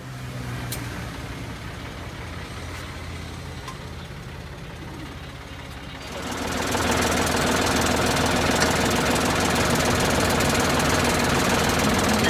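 Tractor engine running with a knocking diesel beat. About six and a half seconds in it becomes much louder and fuller, then stays steady.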